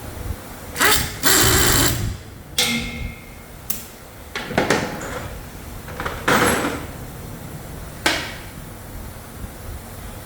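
Hand and power tools on an engine assembly bench, working in short bursts. About a second in there are two loud hissing, whirring bursts, then a brief high whine. After that come two more bursts and a couple of sharp metallic clicks.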